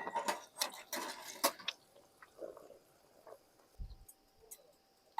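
Irregular drips and light taps of water, a dense run in the first two seconds, then scattered single ones, with a soft low thump near the end.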